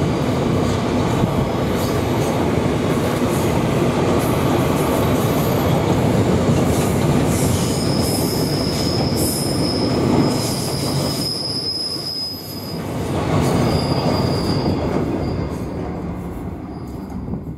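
Freight train wagons rolling past on the rails: a dense, steady rumble and rattle of wheels and running gear. A thin, high wheel squeal comes and goes from about eight seconds in. The sound fades near the end as the last wagon passes.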